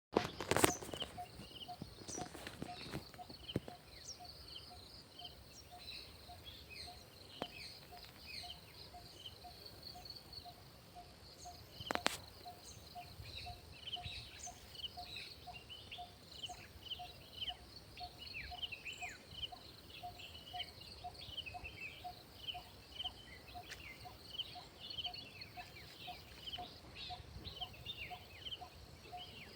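Outdoor nature ambience: many small birds chirping, over a steady high insect drone and a soft note repeating about twice a second. A few sharp knocks come near the start and one about twelve seconds in.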